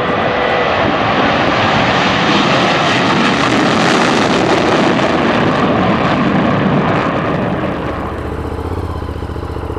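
An aircraft flying past, loud and swelling to a peak about four seconds in before fading. Near the end the sound changes to a motorcycle engine running steadily with a low hum.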